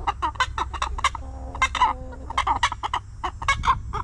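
Chickens clucking, many short calls in quick succession, with one longer, lower call about a second in.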